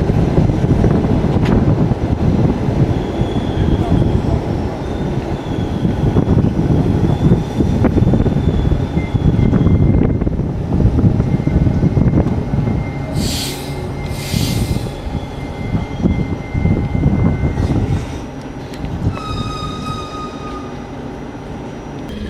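Running noise of a passenger train carriage in motion: a dense, loud rumble of wheels on rail, with thin high squealing tones from the wheels. About 13 s in come two short hissing bursts. The rumble eases somewhat after about 18 s.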